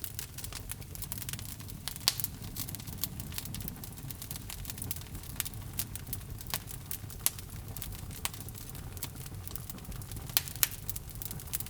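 Wood logs burning in a fireplace: a steady low rumble of flame with irregular crackles and sharp pops, a few louder snaps among them.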